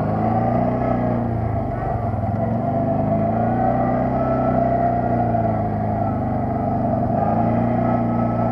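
Quad bike (ATV) engine running on the move, its pitch dipping and climbing a few times as the throttle and load change.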